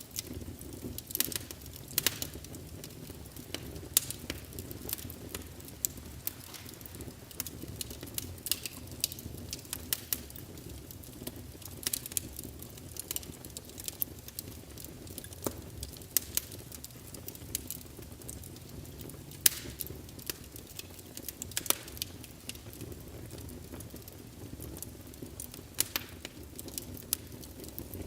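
Wood fire in a fireplace crackling, with sharp irregular pops and snaps over a steady low rumble of flames.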